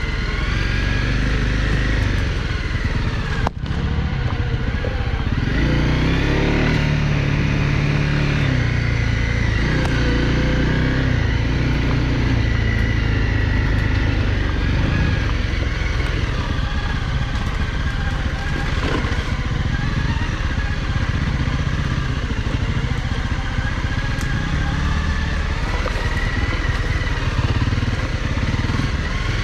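Honda CRF250L Rally's single-cylinder four-stroke engine running under way, its revs rising and falling. The sound cuts out for an instant about three and a half seconds in.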